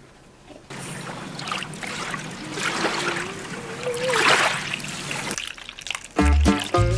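Water being poured into a bowl, a steady splashing pour whose pitch rises as the bowl fills, stopping about five seconds in. Music starts near the end.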